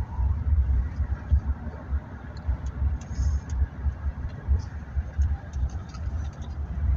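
Low, uneven rumble of a BNSF freight train rolling past, with faint scattered high clicks.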